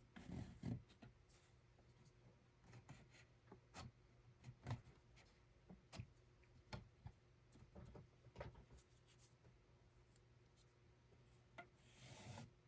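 Faint, irregular small clicks and light rubbing, roughly one tick every second, over a low steady hum.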